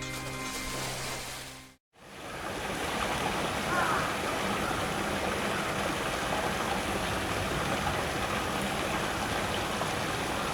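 Soft music with held tones fades out in the first two seconds; then a small garden waterfall runs over rocks, a steady rush of falling and splashing water. A short faint call sounds once about four seconds in.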